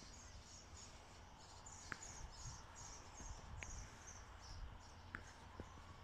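Faint, rapid, high-pitched bird chirping, about two or three chirps a second, that stops about four and a half seconds in, with a few single short, lower notes in between.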